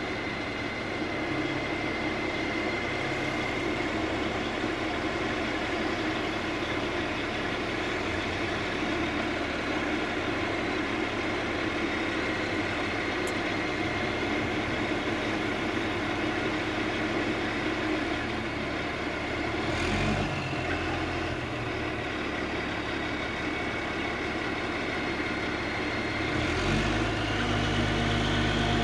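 Heavy diesel engine of a mobile crane running steadily, with a brief change about two-thirds of the way through and revving up near the end.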